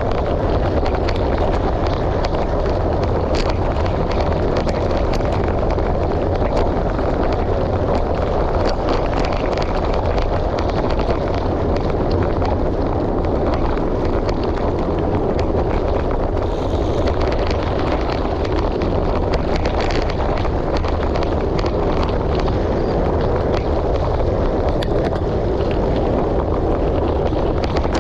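Wind buffeting the microphone with a steady low rumble while a gravel bike rolls over a gravel road, its tyres crunching and small stones and parts giving frequent light clicks and rattles.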